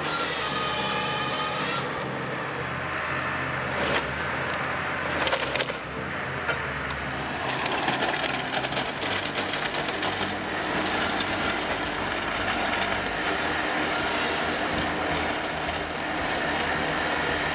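A forestry machine's engine running steadily under load while it cuts and handles timber, with wood cracking and splintering a few times, sharpest about four and five and a half seconds in.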